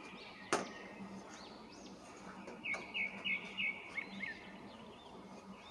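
Small birds chirping in the background, with a quick run of about five chirps in the middle. One short crackle of tissue paper about half a second in, as it is pressed down over the raw potato sticks.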